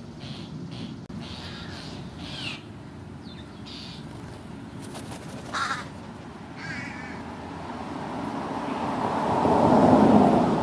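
American crow cawing, a short harsh call about halfway through, among a few other brief bird calls. Near the end a broad rushing noise swells up and becomes the loudest sound.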